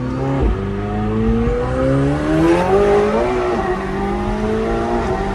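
Sports car engine accelerating, heard from inside the cabin. The pitch climbs, drops at a gear change about half a second in, climbs again and drops at a second upshift about three seconds in.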